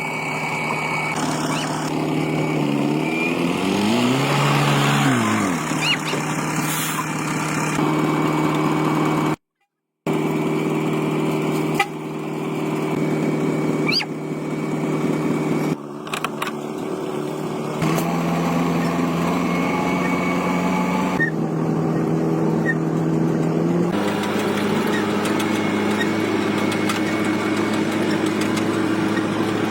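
Engine running steadily across several cut-together clips, its pitch stepping to a new speed at each cut. About four seconds in it revs up and drops back, and the sound cuts out for half a second near the middle.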